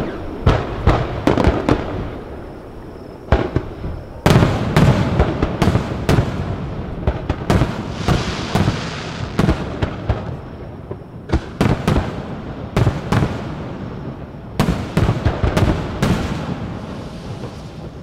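Aerial firework shells bursting close overhead: a rapid series of sharp bangs, with heavier volleys starting about four, eleven and fourteen seconds in, and a crackling haze between the bangs.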